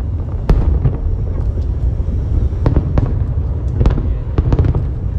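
Fireworks display: a string of sharp bangs over a steady low rumble, several in quick succession near the end.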